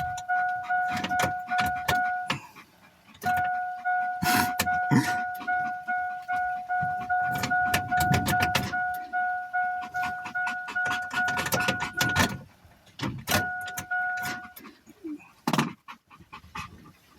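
Pickup truck's warning chime dinging rapidly over and over, stopping and starting again a couple of times before it quits, a chime that won't stop and that the driver puts down to a truck malfunction. Heavy rain patters hard on the truck's roof and windshield throughout.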